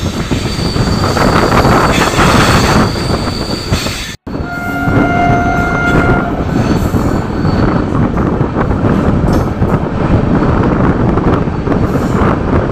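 Passenger train running at speed, heard from an open coach door near the locomotive: a loud, steady rumble and rattle of wheels on rail mixed with wind rush. A thin high wheel squeal rides over it for the first few seconds on the curve, and the sound breaks off for an instant about four seconds in.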